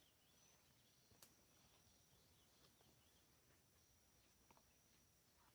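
Near silence: faint forest ambience with a thin, steady, high insect trill, and one soft click about a second in.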